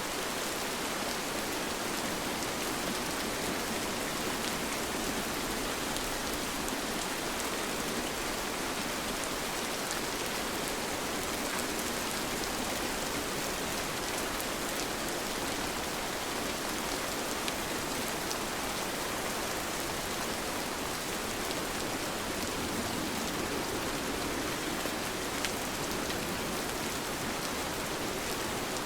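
Steady rain falling, an even hiss of many drops with an occasional sharper drop tick standing out.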